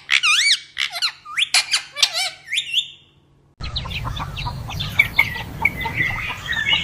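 Pet parrot squawking and whistling in a quick run of short, high, arching calls for about three seconds, which stop abruptly. After a moment, many short bird chirps come in over a steady noisy background.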